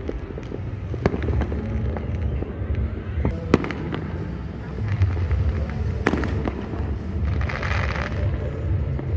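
Fireworks going off: a continuous low booming rumble with sharp cracks about a second in, twice around three and a half seconds and again at six seconds, and a burst of hissing crackle about seven and a half seconds in.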